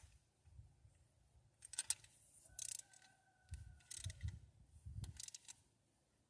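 A hand ratchet and deep well socket clicking in short bursts, about four of them, as the rocker arm adjusting nuts on a Ford Fairlane V8 are tightened.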